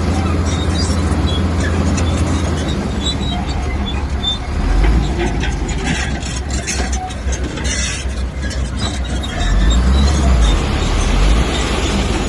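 A crawler bulldozer's diesel engine works steadily while its steel tracks squeak and clank. The engine's low note surges about five seconds in and again near ten seconds.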